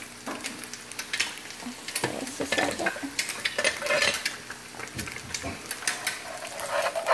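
Diced potatoes and onions sizzling in a frying pan as a slotted spoon stirs through them, with irregular clicks and scrapes of the spoon against the pan.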